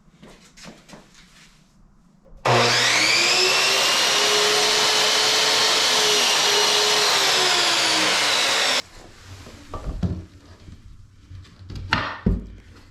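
An electric power-tool motor starts about two seconds in, spins up, runs steadily for about six seconds, sags in pitch and cuts off sharply. A few knocks and handling sounds follow near the end.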